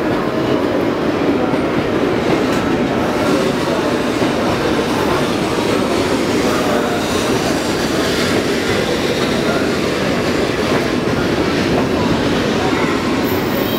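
E2-series Shinkansen train pulling out of a station platform at low speed, with a steady rolling rumble of wheels on rail that holds even throughout.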